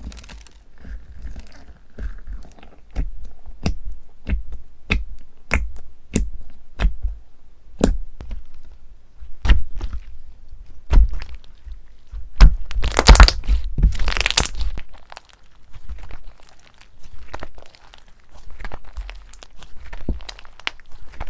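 Hands squeezing and pressing crunchy slime, making a string of sharp pops and cracks about once a second. About two-thirds of the way through comes a couple of seconds of dense crunching, and quieter crackling follows.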